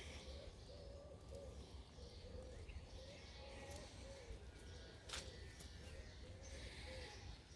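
Faint light rain pattering, with a few sharp drips, one clearer about five seconds in. Behind it a bird calls over and over in short wavering notes about twice a second, above a low distant rumble.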